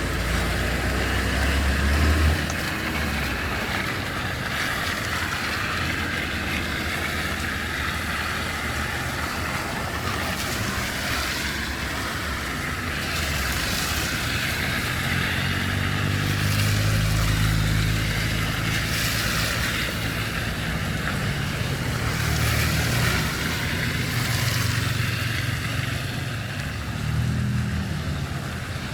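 Street traffic: vehicles passing one after another over a steady hiss of road noise, with a low engine rumble swelling twice.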